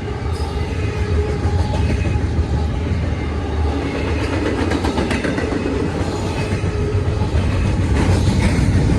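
Freight train rolling past at close range: a steady low rumble with clusters of wheel clicks over the rail joints, loudest near the end.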